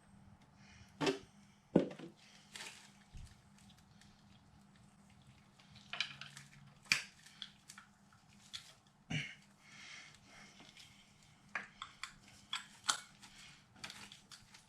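Scattered light clicks, knocks and scrapes from handling the Hawk 250's oil drain plug and its spring against the engine case while trying to thread the plug back in, in sped-up footage, over a faint steady hum.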